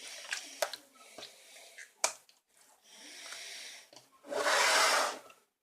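Translucent slime being squished and played with by hand: sticky clicks and pops, then a soft hiss and a louder airy rush lasting about a second near the end.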